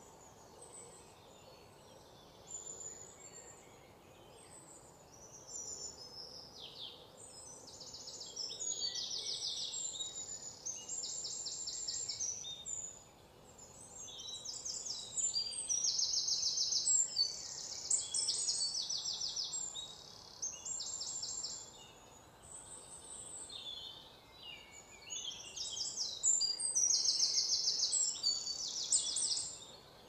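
Several birds chirping and singing rapid high-pitched trills in repeated bursts, over a faint steady background hiss.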